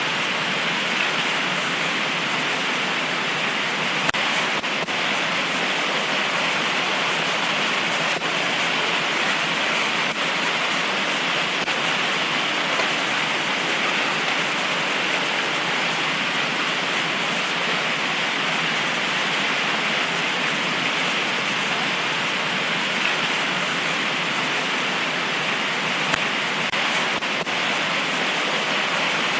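Heavy tropical rain pouring steadily: an even, unbroken hiss of rainfall with no thunder.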